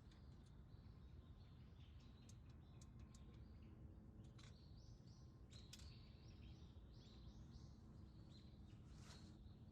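Faint chirps from small birds, with a quick run of short repeated notes in the middle, over a steady low rumble of outdoor background noise.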